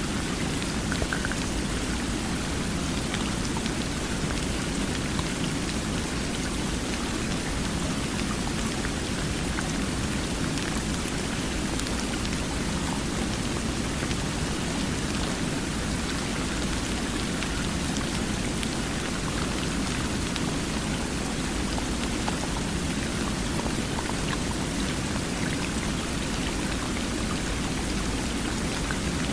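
Steady, unbroken rush of water with a few faint drop-like ticks.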